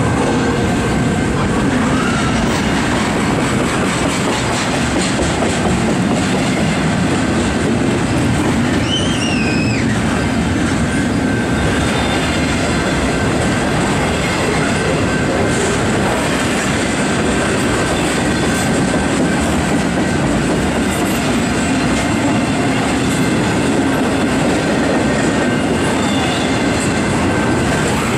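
Double-stack intermodal well cars rolling past: a steady rumble of steel wheels on rail with clickety-clack. About nine seconds in there is a short, wavering high squeal.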